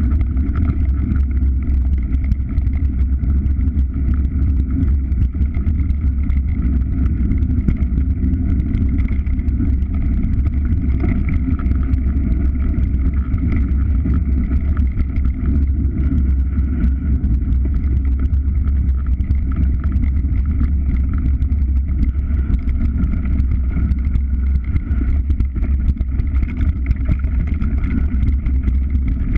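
A vehicle's engine running at a steady speed, with heavy low wind rumble on the microphone.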